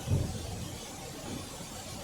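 A vehicle driving, heard as a steady low rumble with a dull thump just after the start.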